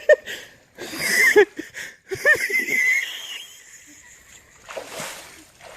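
Several people laughing and shrieking without words, in short bursts of rising-and-falling cries, as a friend falls into the canal water.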